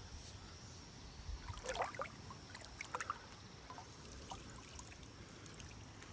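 Faint river water trickling and lapping, with a few small splashes and clicks.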